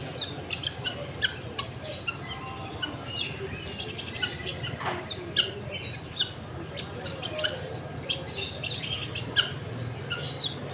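Many small birds chirping, with dense, quick, high-pitched chirps overlapping throughout and one longer call about five seconds in.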